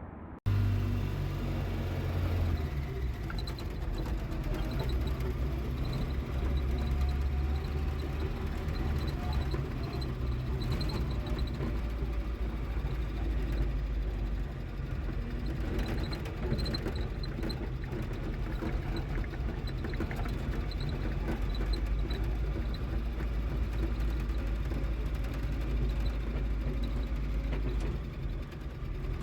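A vehicle's engine running with a steady low rumble while driving over a rough road, with occasional faint knocks.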